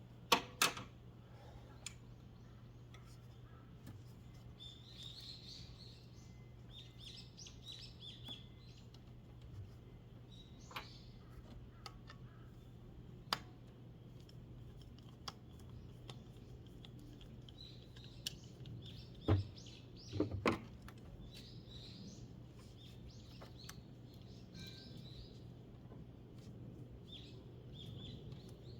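Small birds chirping in short bursts, with a few sharp clicks and knocks, the loudest about half a second in and a pair around twenty seconds in, over a steady low hum.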